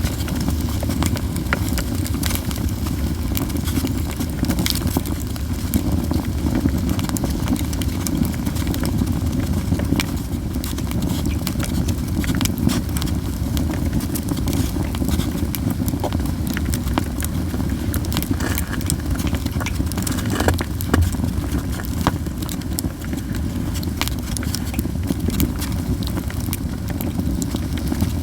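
Yew-wood campfire burning, crackling with frequent sharp pops scattered irregularly over a steady low rumble.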